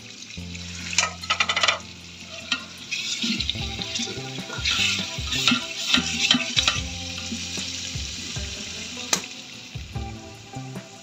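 Onion, garlic, tomato and chilli masala sizzling as it fries in oil in a cooking pot, with a ladle stirring and clicking against the pot. The sizzle is loudest through the middle, and there is a single sharp knock near the end.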